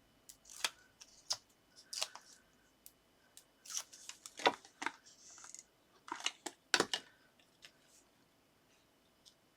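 Scattered sharp clicks, taps and short rustles of paper and card being handled on a craft desk as a small paper topper is stuck down with a foam pad. The handling is busiest in the middle and dies away near the end.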